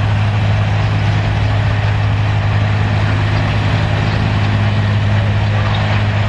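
Six-cylinder 282-cubic-inch diesel farm tractor engine running steadily under load during a sled pull, a constant low drone.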